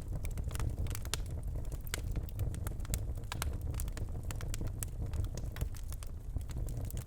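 Birchwood fire burning in a fireplace: frequent sharp, irregular crackles and pops over a steady low rumble of the flames.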